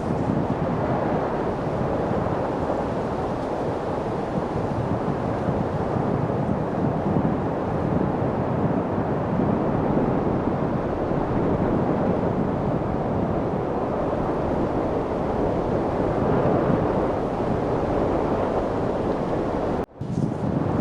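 Steady rushing wind noise, a low, even hiss that cuts out for an instant near the end.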